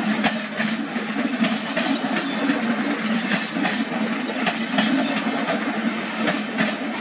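Indian Railways passenger coaches rolling past at speed. The wheels click in pairs over the rail joints, a steady clickety-clack over a low rumble.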